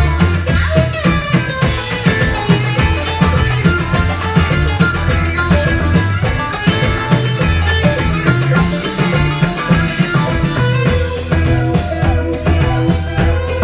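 Live band playing an instrumental passage of a Turkish psychedelic folk-rock song, with a steady bass line, drum kit and a plucked-string lead.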